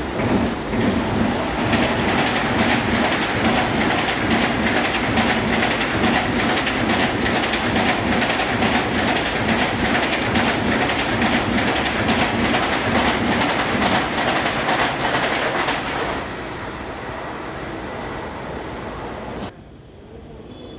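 Mumbai suburban local train running along the platform, its wheels clattering fast over the rail joints. The clatter stops about sixteen seconds in, leaving a quieter rumble that drops away abruptly near the end.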